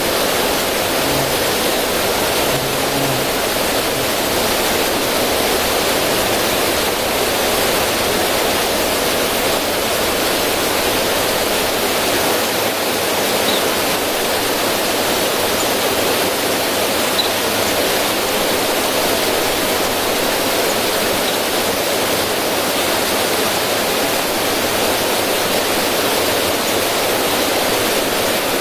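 River water running steadily and splashing over rocks in a small cascade, an even rushing with no change.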